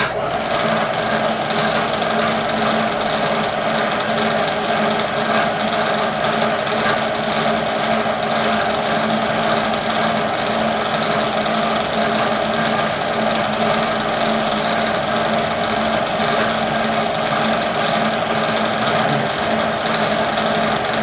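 Milling machine's electric motor running steadily with a constant mechanical hum; it comes on abruptly.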